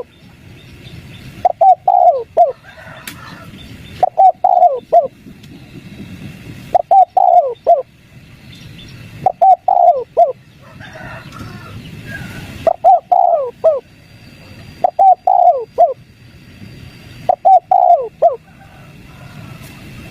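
Spotted dove cooing its three-note 'kuk 3' call: a short phrase of falling coos repeated about every two and a half seconds. A steady low hum runs underneath, with faint chirps from other small birds.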